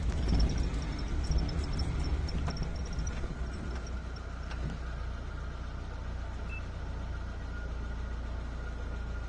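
Vehicle engine running at idle, heard from inside the cab as a steady low hum, a little louder over the first few seconds and then even.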